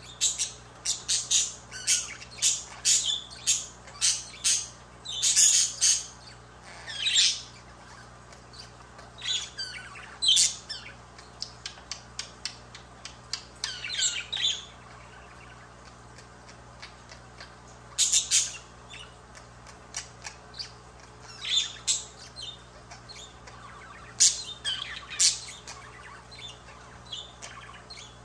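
Budgerigar chirping and squawking in quick runs of short, high calls mixed with a few longer warbling phrases, the runs separated by pauses of a second or two.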